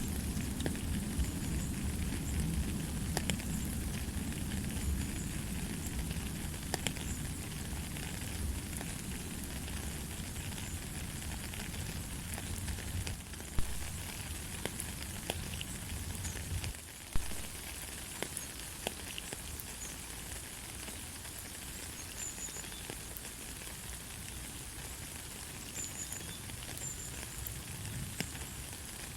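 Steady light rain falling, a continuous hiss full of fine ticks of drops striking a surface. Two louder single drops or taps stand out near the middle.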